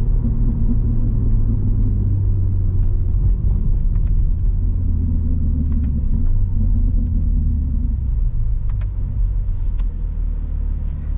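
BMW G80 M3's twin-turbo inline-six, fitted with a single midpipe, cruising at steady revs: a continuous low exhaust drone with road rumble, and a few faint clicks.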